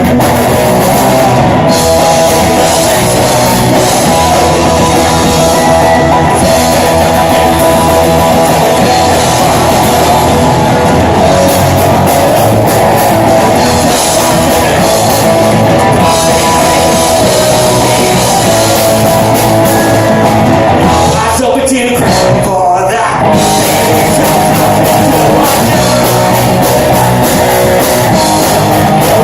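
Live rock band playing loud, with guitar and singing. The music thins out briefly about three-quarters of the way through, then comes back at full level.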